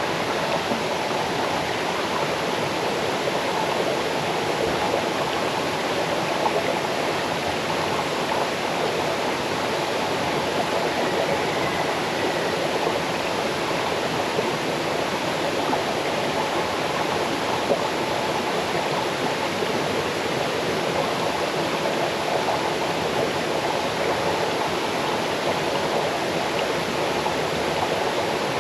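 Small waterfall cascading over rocks into a stream: a steady, even rush of water.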